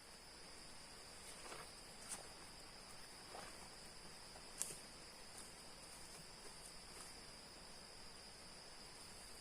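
Forest insects, crickets or cicadas, trilling steadily and faintly, with a few soft ticks or twig snaps.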